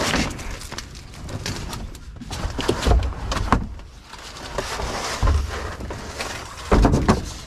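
Junk being rummaged through in a dumpster: irregular clattering and scraping of objects, with several heavy thumps, the loudest near the end.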